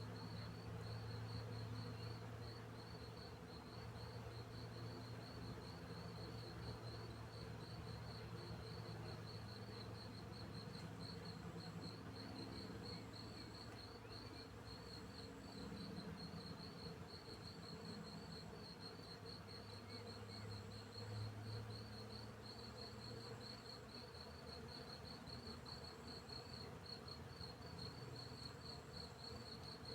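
Crickets chirping in a steady, rapid pulse, with the low buzz of bees flying close by that swells and fades.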